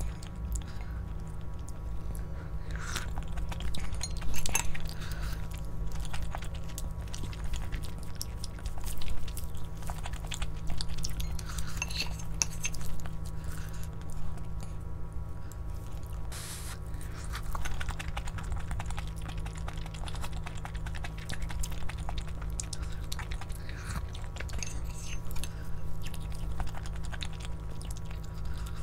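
A person chewing and biting food, with scattered short crunches and clicks over a steady low hum.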